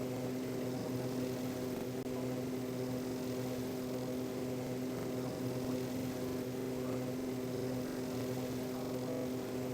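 Aeroplane engines droning steadily, a low, even-pitched hum over a rushing noise, with no change in pitch or level.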